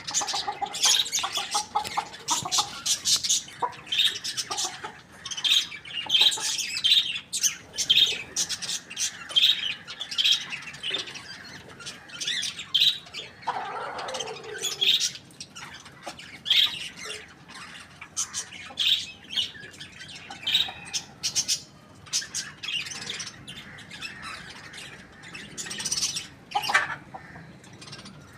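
Chickens calling: many short, high-pitched chirps and squawks, with a longer falling call about halfway through and another near the end.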